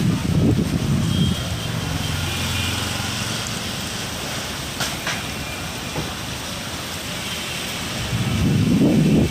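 Steady rain hiss with a heavy low rumble in the first second or so that fades, then swells again about eight seconds in, and a couple of sharp clicks in the middle.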